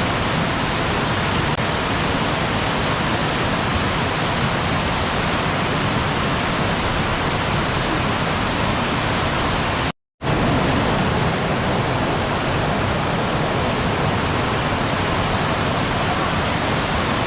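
Waterfall rushing in a steady, even roar of falling water. It cuts out completely for a split second about ten seconds in, then resumes unchanged.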